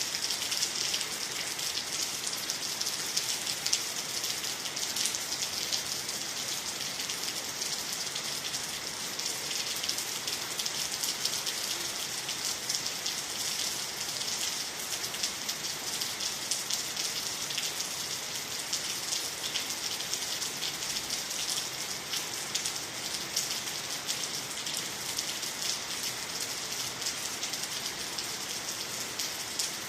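Steady rain falling on water, trees and the ground, a dense even hiss of many small drop ticks.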